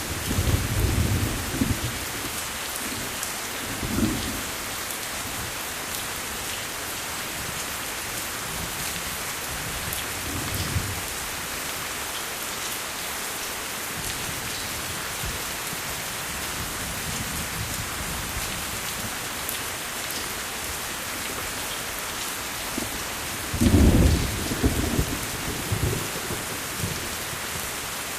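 Steady rain falling, with low rolls of thunder: one at the start, smaller ones about 4 and 10 seconds in, and the loudest near the end.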